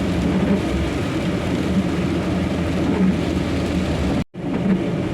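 Truck engine running steadily under rain and road noise, heard inside the cab while driving through a heavy downpour. The sound cuts out completely for a moment about four seconds in.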